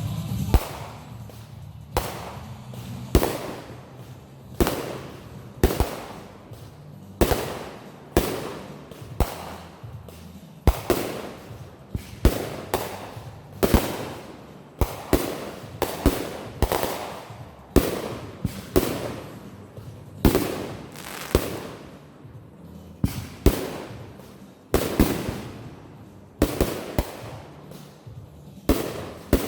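Fireworks going off in a steady series: a sharp bang about once a second, each trailing off briefly before the next.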